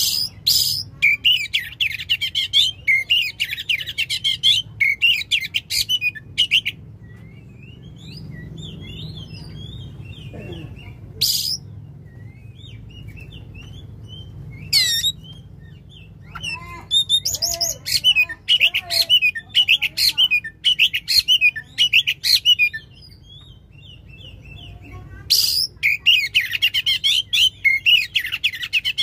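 Oriental magpie-robin (kacer) singing loudly in long rapid bursts of varied whistled and scratchy notes. The bursts come three times, at the start, in the middle and near the end, with softer scattered notes and calls between them.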